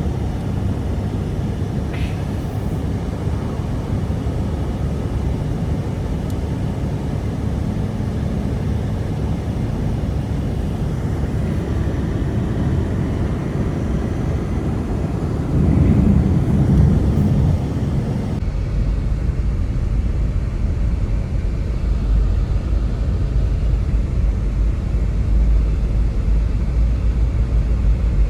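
Strong blizzard wind blowing steadily, a heavy low rumble with no pitch. About eighteen seconds in it turns deeper and duller.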